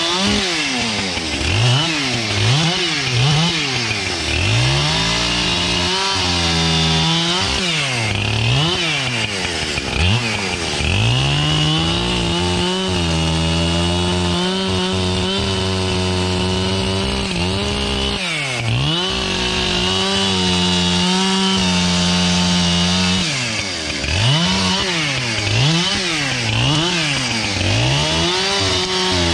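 Large two-stroke chainsaw bucking wood. Its engine is revved up and down in quick blips for the first few seconds, then held steady at high speed through long cuts in the middle, with a brief dip about 18 seconds in. Near the end come more quick revs.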